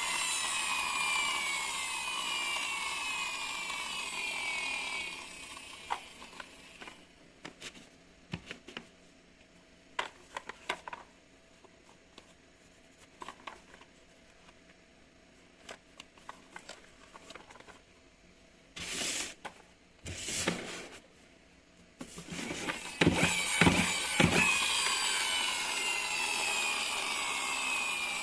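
A small electric motor whirring, its pitch repeatedly sliding down, then stopping; a quiet stretch of scattered clicks and knocks follows, with two short rushing bursts, before the whirring starts again near the end.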